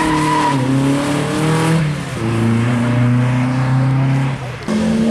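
Lancia Beta Monte Carlo rally car's four-cylinder engine pulling hard out of a corner and away, with upshifts about half a second and two seconds in. Near the end the sound cuts abruptly to another car's engine.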